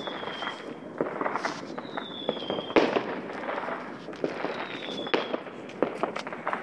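Fireworks going off in a steady spatter of bangs and crackles, with one strong bang a little under three seconds in. Three whistles slide down in pitch, at the start, about two seconds in and about five seconds in.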